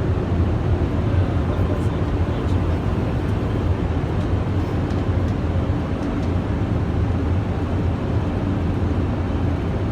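Steady airliner flight-deck noise in flight: a constant low drone with an even rush of airflow over it.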